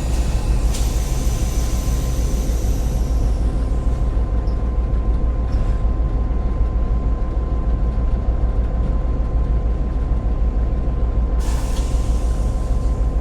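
Cab of an EMD GP38-2 diesel locomotive under way, its 16-cylinder 645 engine drumming steadily. A high squeal sounds for the first few seconds, and a short hiss comes near the end.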